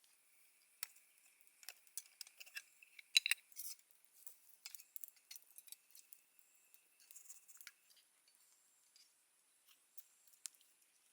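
Scattered light clicks and taps of small objects being handled, loudest in a quick cluster about three seconds in, over a faint steady high-pitched hum.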